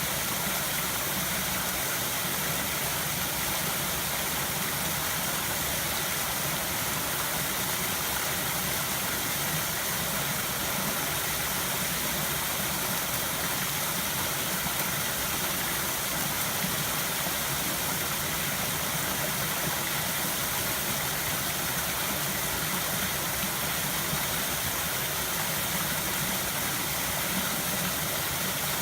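River water flowing and rushing, a steady, unbroken noise.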